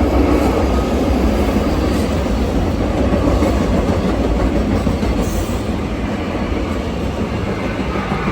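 SEPTA passenger train running close past the platform: a loud, steady rumble of the cars and wheels on the rails, easing off slightly near the end.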